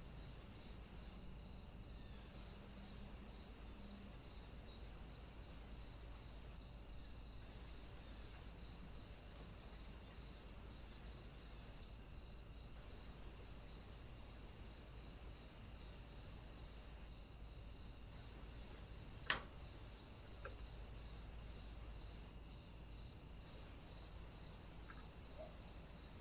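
Trail camera's own electronic noise: a steady faint high-pitched hiss with soft, evenly spaced pulses about one and a half a second. One sharp click comes about two-thirds of the way through.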